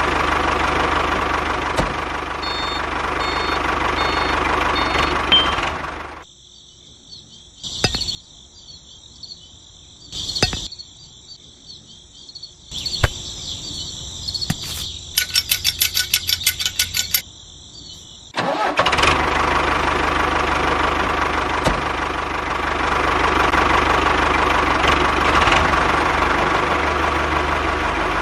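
An engine running steadily. It stops about six seconds in, giving way to quieter thin high sounds and a quick run of ticks, then starts again about eighteen seconds in and runs on.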